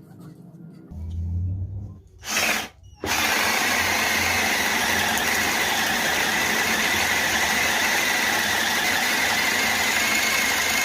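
Maktec MT081 cordless drill, repaired and running on an 18V Makita LXT battery, being test-run: a short burst of the motor, then from about three seconds in it runs at a steady speed with a steady whine.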